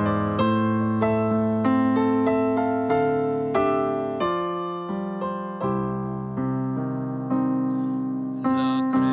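Solo piano playing a slow, gentle passage: single notes over held chords, each note struck and fading before the next, about one or two a second.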